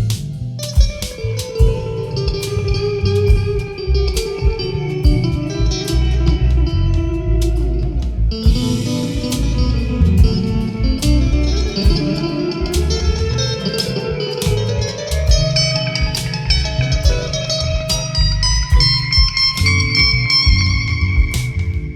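Instrumental break in a live blues song: a guitar playing a melodic lead line over a bass line, with a steady beat.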